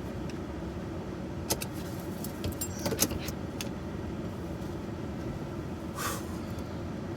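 Parked truck's engine running steadily, with a few short metallic clicks and jangles: one about a second and a half in, a cluster around three seconds in, and a brief rustle near six seconds.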